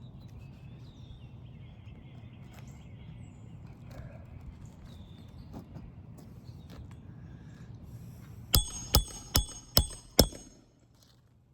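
Five quick hammer blows on a roof snake, driving a roofing nail into an asphalt shingle; each strike rings with a metallic ring. Before them there is a steady low background hum with faint small taps.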